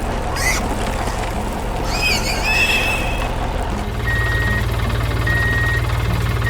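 A horse whinnies about two seconds in. From about four seconds a vehicle engine runs with a low rumble while a reversing alarm gives steady beeps, each about half a second long and a little over a second apart.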